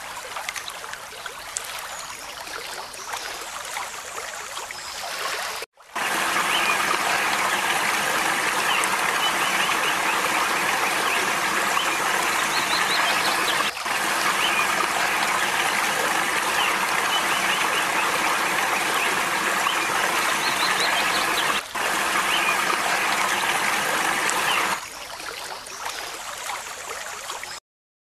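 Steady rushing water across several cut-together shots. It is quieter at first, louder from about six seconds in, drops back a few seconds before the end, then cuts off.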